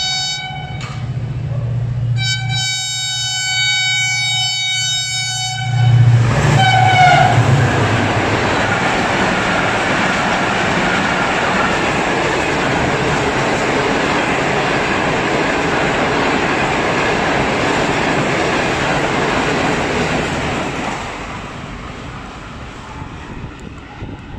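Diesel locomotive horn of a Pakistan Railways express train sounding as it approaches at speed: a short blast, then a long one, with the pitch dropping as the locomotive passes about six seconds in. Its coaches then rush by in a loud steady roar for about fifteen seconds, which fades away near the end.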